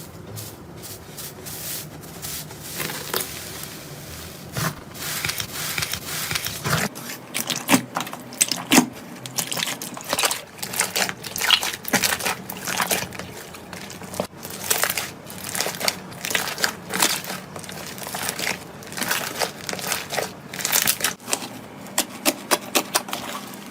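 Slime being squeezed and pressed by hand, giving a run of irregular crackling clicks and pops, denser near the end.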